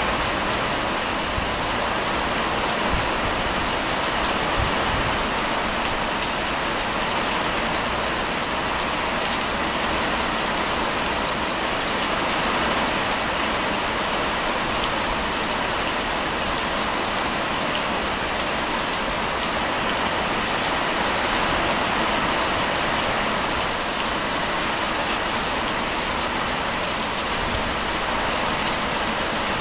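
Heavy rain pouring steadily onto garden foliage and a gravel path, a constant even hiss with no thunder.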